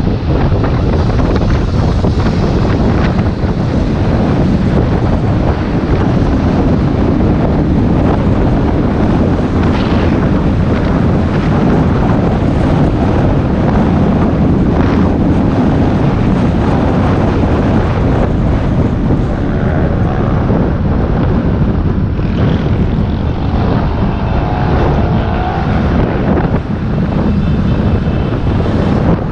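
Wind buffeting the microphone of a rider's camera on a moving electric bike, a loud steady rumble with road and traffic noise underneath.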